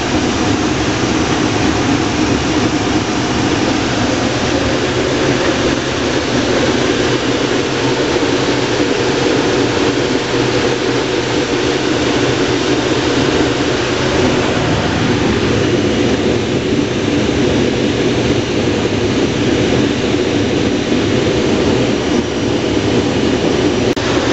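Case IH Axial-Flow combine running steadily under load while harvesting corn, heard from inside the cab: a loud, continuous drone of engine and threshing machinery.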